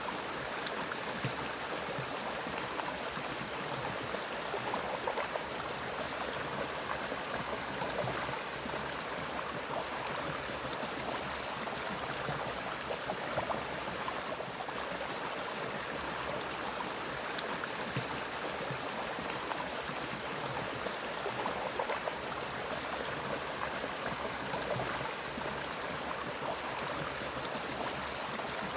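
Mountain stream flowing and rushing over rocks, a steady even wash of water with small splashes and gurgles. A steady high-pitched whine holds on top of it.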